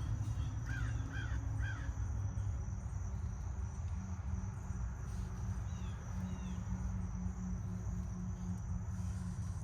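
1989 Carrier Tech 2000 air conditioner condensing unit running with a steady low hum from its compressor and fan. A bird calls three times in the first two seconds, and twice more faintly about six seconds in.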